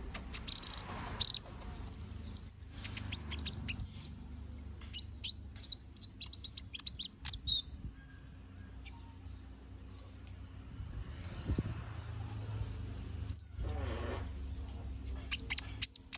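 Kolibri ninja (konin), a small sunbird, singing in quick runs of very high chirps, twitters and short trills. It breaks off for a few seconds around the middle, then gives more sharp high calls near the end. A faint steady low hum runs underneath.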